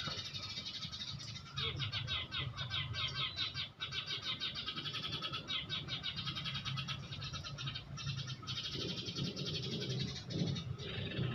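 Small birds calling: a fast run of sharp, high chattering notes that starts about a second and a half in and lasts some four seconds, then sparser single calls.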